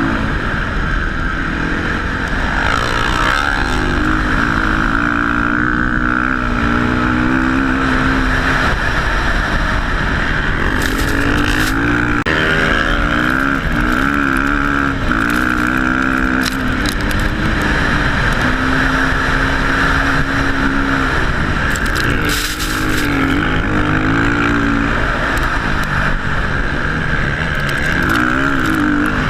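Dirt bike engine running and revving up and down over and over, as when riding over a track, with heavy wind rumble on the microphone.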